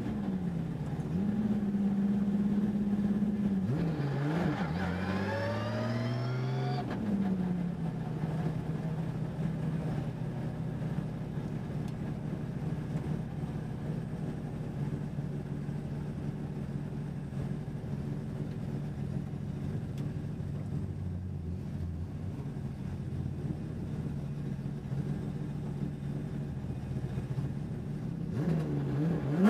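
Race car engine running at low speed: the revs dip and climb briefly about five seconds in, then the engine settles to a steady, even note, and dips and climbs again at the very end.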